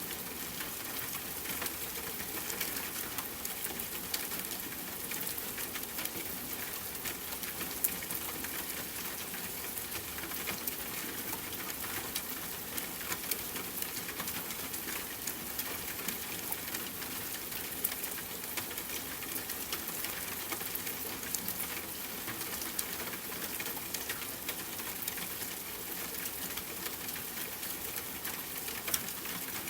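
Steady soft rainfall with many small, irregular crackles of a wood fire mixed in.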